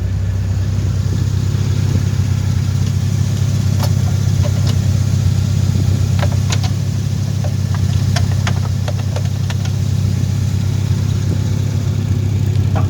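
Van engine idling steadily with an even low hum, a few light clicks scattered through it.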